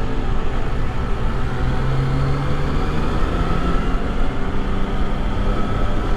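Motorcycle engine running steadily while riding, with a low engine note swelling briefly about two seconds in, over a steady rush of wind and road noise.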